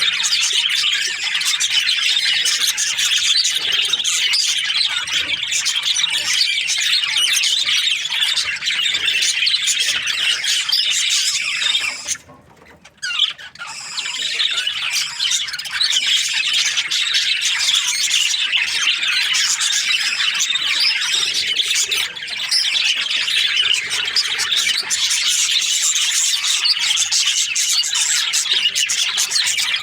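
A flock of budgerigars chattering, with many chirps and squawks overlapping without pause. The chatter breaks off briefly about twelve seconds in, then resumes.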